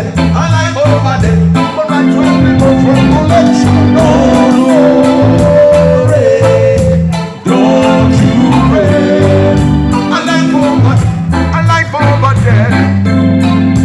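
Live reggae band playing a riddim, with a repeating bass line under a steady beat and a melodic line above; the music dips briefly about halfway through.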